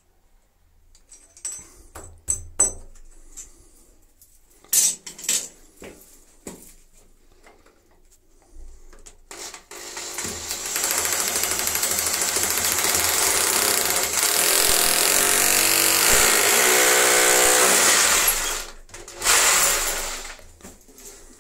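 Electric drill drilling into the wall in one long run of about nine seconds from roughly halfway in, then a short second burst near the end. Before it, scattered knocks and clicks of tools and fittings being handled.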